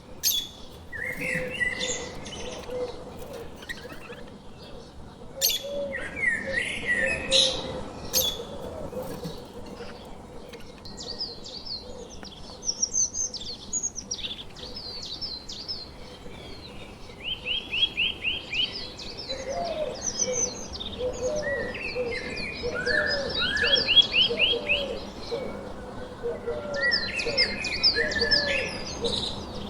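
Several birds chirping and calling in quick repeated series of high notes, with lower repeated calls underneath, busiest in the second half.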